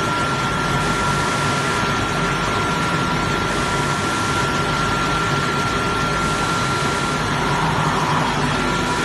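Vertical Low-E glass washing machine running: a steady machine noise with a constant high-pitched whine over it.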